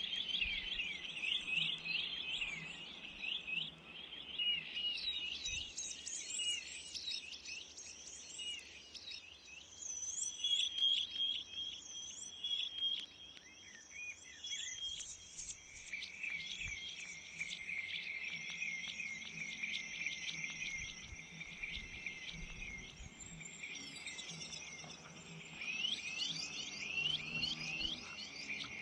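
Small garden songbirds chirping and calling, many quick high notes and fast trills overlapping one another.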